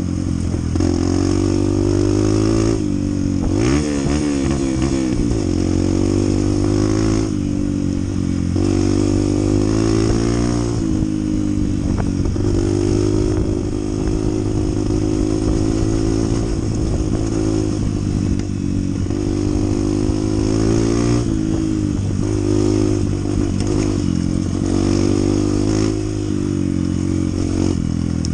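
Honda CT125's 125 cc single-cylinder four-stroke engine running under way. Its pitch rises and falls several times as the bike speeds up, shifts and slows.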